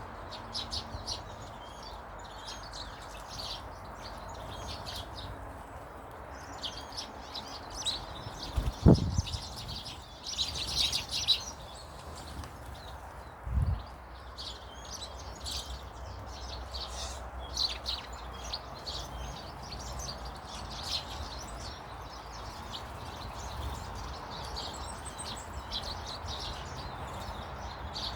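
Small garden birds chirping and twittering on and off, over a steady background hiss. Two dull low thumps cut in, the louder about a third of the way through and a second about halfway.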